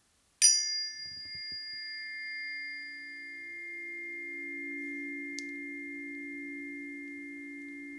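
Planetary tuning forks struck with a sharp tap about half a second in, then ringing on in two close, steady low tones with a slow beat between them. A fainter high ring fades out after a few seconds.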